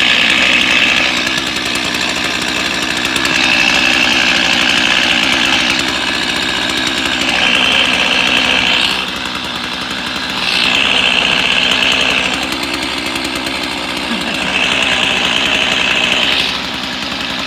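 Chainsaw engine revved up and let back down about five times, each high-pitched burst lasting around two seconds, with lower running between them.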